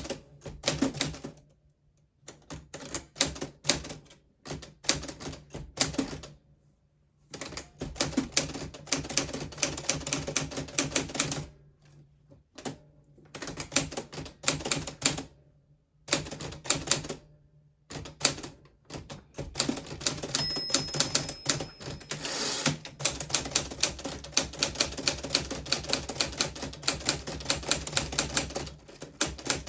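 1940s Smith Corona Silent manual typewriter being typed on: rapid runs of type-bar strikes, broken by a few pauses of about a second.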